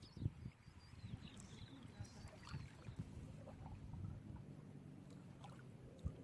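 Small sea waves lapping and splashing at the shore, low and uneven, with a few soft thumps in the first second. Faint high bird calls come over it in the first couple of seconds.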